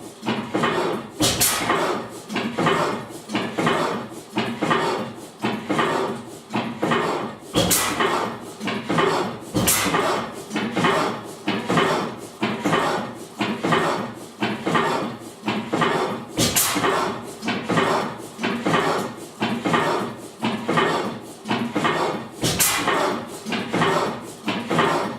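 1897 Crossley 'The Otto' vertical hot-tube gas engine running, its valve gear and works knocking steadily about twice a second, with a sharper report five times at uneven intervals of a few seconds.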